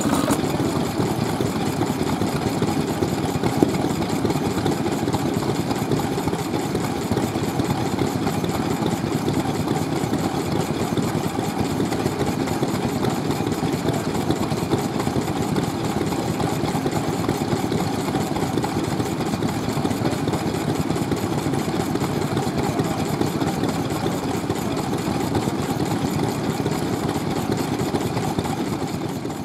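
Vintage stationary petroleum engines (Japanese hatsudoki) running steadily with a fast, even pulsing, fading away near the end.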